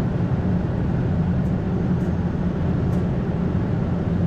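Steady rush of airflow and engine noise heard inside the flight deck of an Airbus A220-300 on short final approach, a few hundred feet above the runway.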